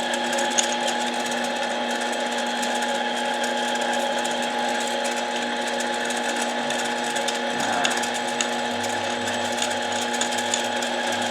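Harbor Freight mini lathe running at a steady speed, its motor and gear train giving an even, constant whine.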